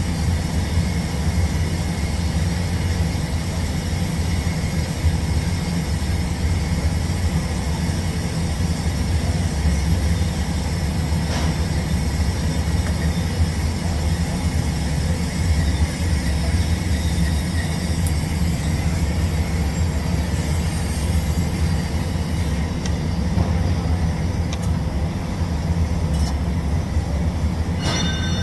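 Steady low mechanical hum that runs without a break, with a few faint clicks near the end.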